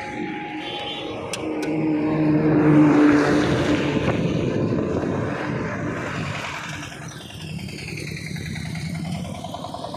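Motor vehicles passing on a highway: one engine swells to its loudest about three seconds in and fades away, and another vehicle sweeps past near the end.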